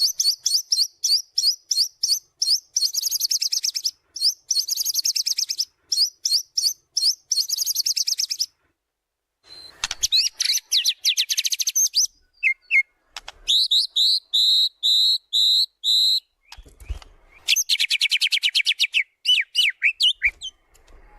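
White-rumped shama (murai batu) singing a fast, varied song of sharp high notes and rattling trills. It pauses briefly about eight seconds in, then sings a run of five clear rising notes before another rapid trill.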